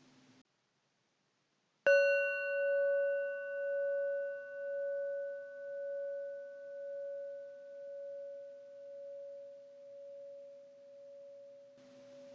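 A singing bowl struck once, ringing out with a slowly fading tone that swells and ebbs about once a second.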